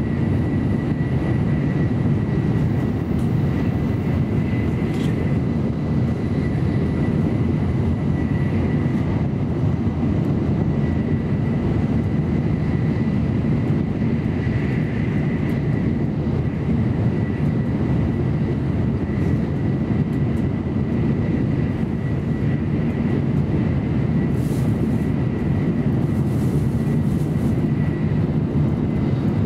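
Inside the passenger cabin of an N700A Shinkansen running at speed: a steady low rumble of wheels and rushing air, with a thin steady high tone over it.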